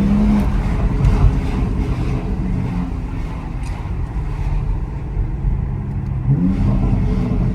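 BMW X3 M Competition's twin-turbo straight-six engine and exhaust pulling in Sport Plus mode. The engine note drops off about half a second in and climbs again near the end as the car accelerates.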